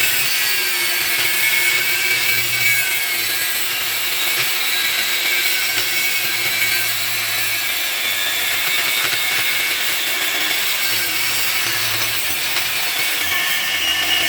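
Power tool grinding the steel of a leaf spring: a steady, loud grinding hiss with faint high whines running through it.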